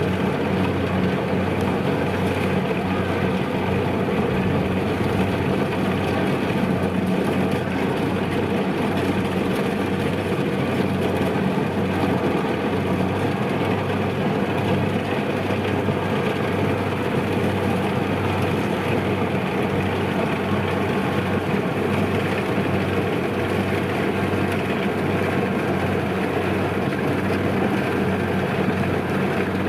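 Kubota DC-93 rice combine harvester's diesel engine and machinery running steadily with a constant low hum.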